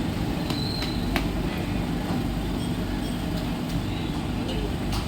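Mumbai suburban electric local train running through the station: a steady rumble with scattered sharp clicks and knocks.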